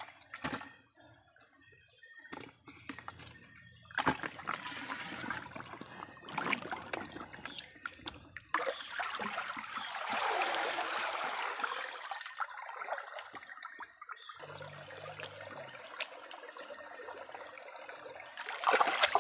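Shallow creek water trickling and sloshing as hands grope through the streambed for shrimp, with sharp splashes now and then, a swell of sloshing about halfway, and a louder splash near the end.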